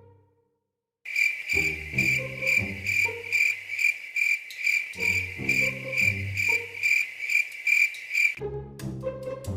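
Cricket chirping in a steady rhythm of about two chirps a second, starting about a second in and stopping near the end, over low pitched background music notes.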